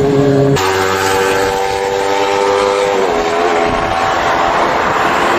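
Inline-four sportbike engine held at high revs, with a steady high note. The note changes abruptly about half a second in and steps down slightly about three seconds in, after which the sound becomes rougher and noisier.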